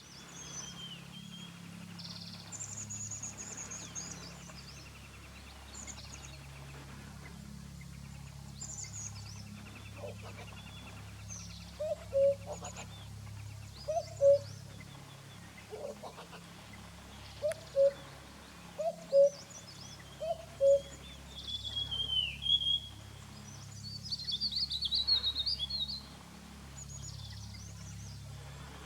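Several wild birds calling: scattered high chirps and whistles throughout, pairs of short, loud, low hooting notes repeated every second or two in the middle, then a falling whistle and a rapid high chatter near the end.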